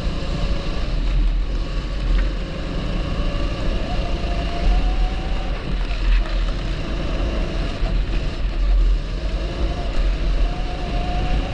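A 270cc kart engine running hard on track, its revs climbing and dropping several times as it accelerates and slows.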